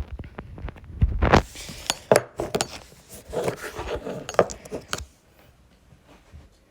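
Plastic mini hockey sticks clacking and the puck knocking about during play: a quick, irregular run of sharp clicks and knocks that stops about five seconds in.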